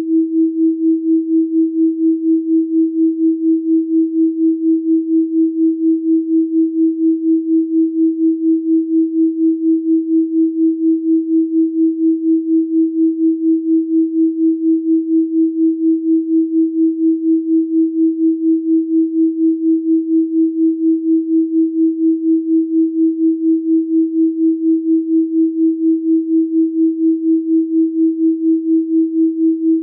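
Continuous electronically generated pure tone at 324 Hz, a 'healing frequency' tone, pulsing evenly in loudness about two to three times a second.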